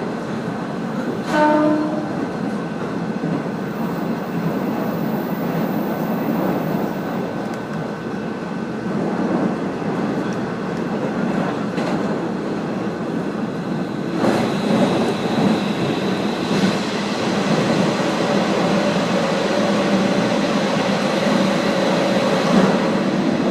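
Steady running noise of a diesel railcar heard from aboard, wheels on the rails, with a short pitched toot like a horn about a second in and a louder rush about two-thirds of the way through.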